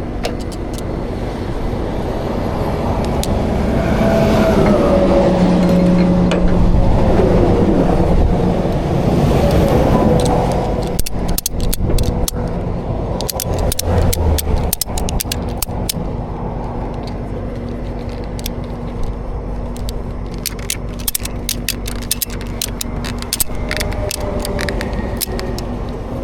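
Highway traffic with a steady low engine hum. A vehicle passes about four to ten seconds in, its pitch falling as it goes by. After that come many sharp, irregular metal clicks and rattles from tie-down strap hardware as a motorcycle is strapped to the tow truck bed.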